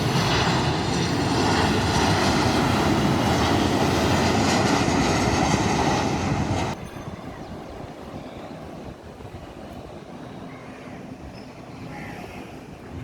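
Jet airliner's engines running loud, a heavy rush with steady high whining tones, which cuts off abruptly about seven seconds in. After it only a much quieter background remains, with a few faint short chirps.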